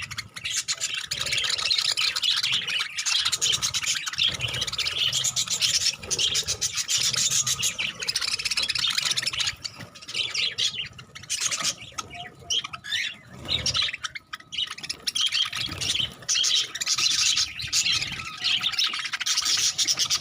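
Budgerigars chattering and chirping in a dense, continuous stream that thins out for a few seconds midway, then picks up again.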